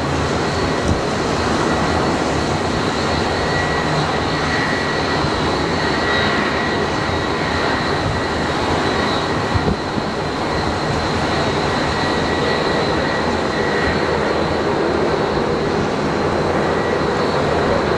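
Jet airliner engines running steadily: a dense rushing noise with a thin high-pitched whine held throughout, and a brief knock about halfway through.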